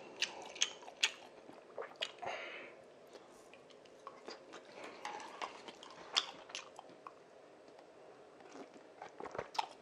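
A person chewing spicy rice cakes (tteokbokki), with wet mouth clicks and smacks. The clicks come thickly at first, then thin out to a few faint ones.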